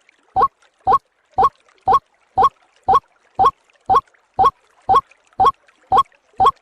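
White-breasted waterhen (ruak-ruak) lure call: one short, hoarse call note repeated evenly about twice a second, as a looped recording.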